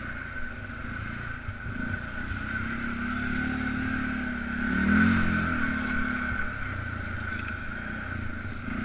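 Polaris Sportsman 500 ATV's single-cylinder four-stroke engine running while being ridden. The revs rise to a peak about five seconds in, then ease off again.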